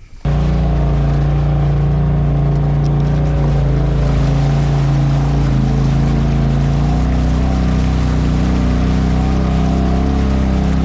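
Polaris RZR side-by-side engine running steadily under way, starting suddenly with the cut to riding footage; its pitch dips slightly about two-thirds of the way through.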